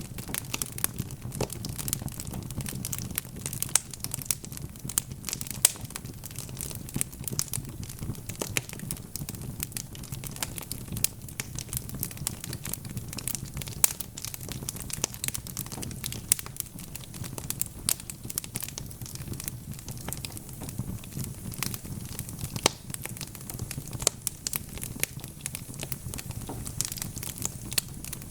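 Wood fire crackling steadily in a fireplace, with irregular snaps and a few louder pops over a low rumble of burning.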